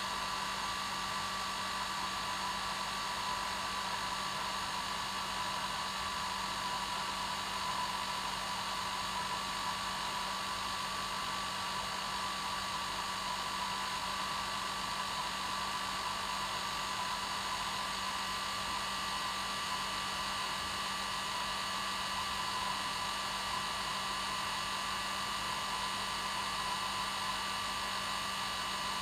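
Hair dryer running steadily, a constant rushing blow with a fixed motor whine and no change in speed.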